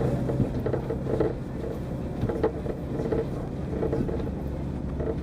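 Diesel railcar running along the line, heard from inside the car: a steady low rumble of engine and wheels on the rails, with a few sharp clicks.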